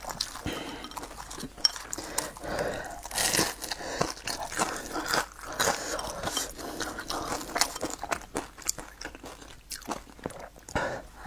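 Close-miked chewing and crunching of crispy deep-fried battered food, with many irregular crisp crunches between bites.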